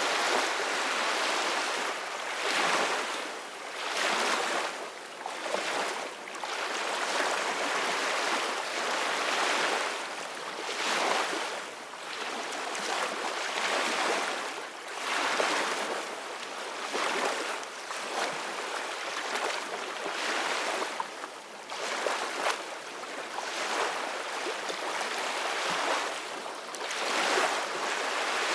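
Ocean waves washing in, a steady rushing hiss that swells and eases every couple of seconds.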